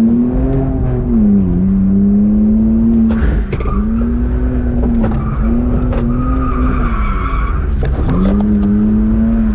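BMW E46 drift car's engine held high in the revs, dipping and climbing back several times as the throttle is worked through a drift. Tyres squeal for stretches about four seconds in and again around seven seconds.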